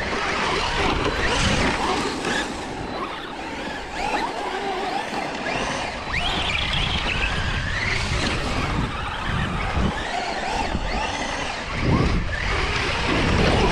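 Electric RC trucks driving, their motors whining up and down in pitch as the throttle is worked, over the rumble of tyres and the ground. There is a louder surge near the end.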